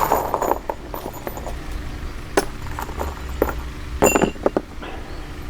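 Small metal hardware clinking and knocking as coop bolts and parts are handled: a string of sharp clicks, the loudest cluster about four seconds in.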